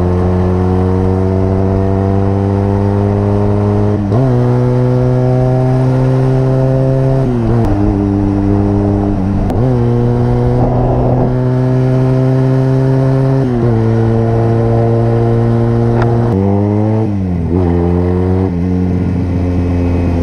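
Motorcycle engine pulling through the gears while riding: the engine note climbs steadily, then drops sharply at each upshift, several times over.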